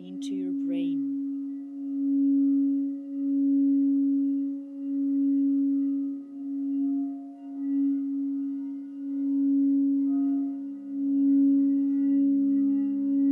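Crystal quartz singing bowl sounding one sustained tone that swells and fades about every second and a half as it is played. A second, lower tone joins near the end.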